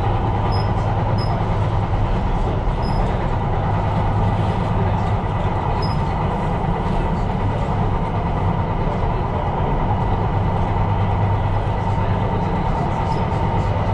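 Tyne & Wear Metro train running along the line, heard from inside: a steady rumble of motors and wheels on rail with a low hum.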